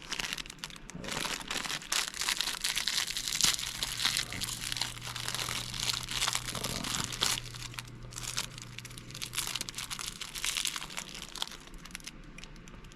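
Plastic wrapper of a Devil Dog snack cake crinkling and tearing as it is pulled open by hand, a dense run of crackles that dies down near the end.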